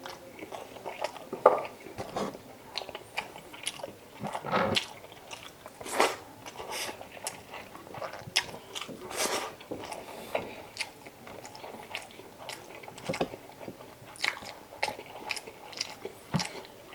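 Close-miked eating sounds of a person chewing chicken adobo: mouth smacks and clicks coming irregularly, several a second, with occasional louder crunches.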